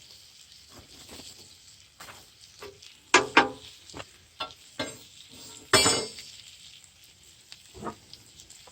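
Metal scraping and clinking over a campfire as hot coals are raked under the cooking pot, with food sizzling underneath. There is a loud pair of scrapes about three seconds in and another just before six seconds.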